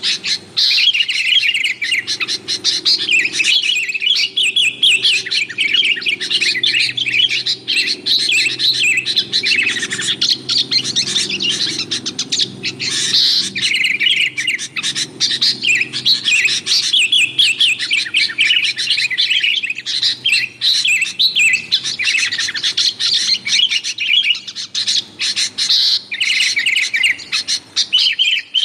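Sooty-headed bulbuls (kutilang) calling noisily in a rapid, unbroken stream of chirps and chattering notes.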